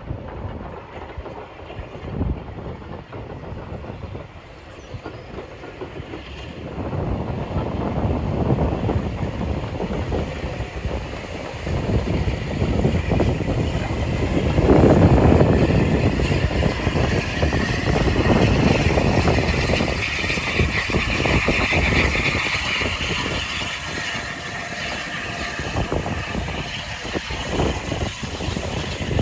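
A train running past on the rails, its wheels clattering over the track, growing louder to a peak about halfway through and then easing off slowly.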